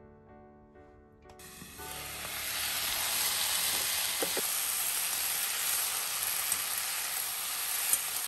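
Cabbage frying in oil in a pan, sizzling steadily. The sizzle rises about a second and a half in and cuts off abruptly at the end; soft background music is heard before it.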